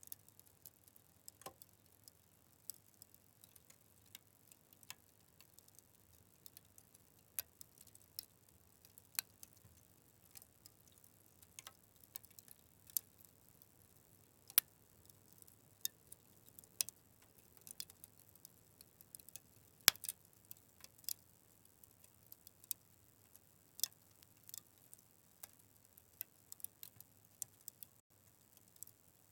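Wood fire crackling, with sharp irregular pops and snaps over a faint low hiss, the loudest snap about twenty seconds in.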